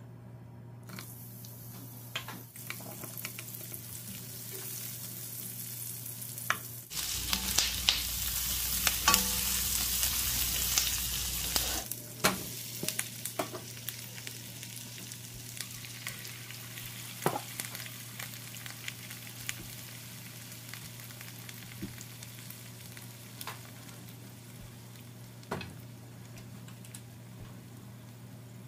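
Oil in a non-stick wok sizzling as grilled chicken pieces and sliced onion fry. The sizzle turns loud and dense, full of crackles and pops, for about five seconds near the middle, then settles to a steadier, quieter sizzle with occasional pops.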